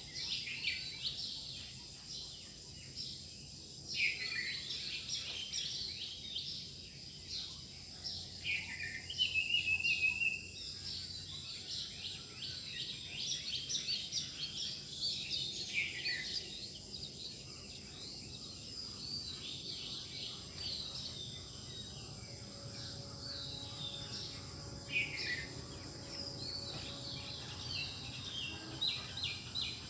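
Several birds singing in a dawn chorus: quick repeated chirps and short downward-sliding calls from more than one bird, over a steady high-pitched background hum.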